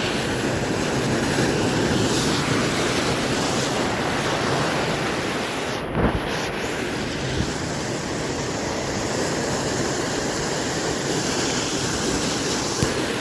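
Large ocean swell waves breaking and surging on the shore, with wind buffeting the microphone. There is a brief thump about six seconds in.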